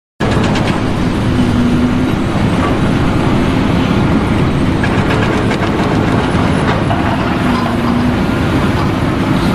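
Loud, steady mechanical rumble with fast rattling clicks and a faint hum, starting abruptly just after the start.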